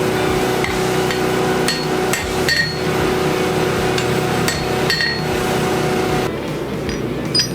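A forging hammer striking steel on an anvil: about eight irregular blows, several leaving a short metallic ring. A steady hum runs underneath and drops away about six seconds in.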